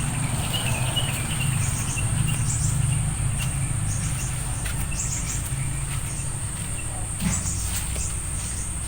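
A steady high-pitched insect drone, crickets or cicadas, with short bird chirps scattered over it, several close together in the first few seconds. A low steady hum runs underneath.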